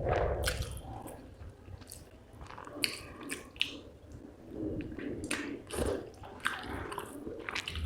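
A person chewing a mouthful of rice and fish curry, with wet smacking mouth sounds and irregular short clicks of the lips and tongue.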